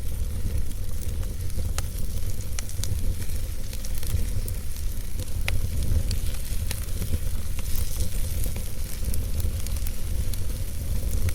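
Campfire burning, wood crackling with a steady hiss and scattered sharp pops over a constant low rumble.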